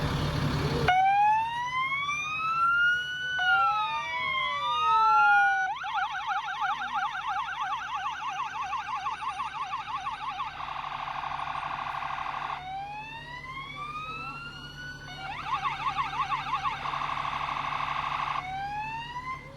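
Emergency-vehicle electronic sirens cycling through their patterns. Each cycle is a slow rising-and-falling wail, then a rapid yelp, then an even faster warble. Around the first wail a second siren overlaps, so two wails cross each other. The cycle then starts over.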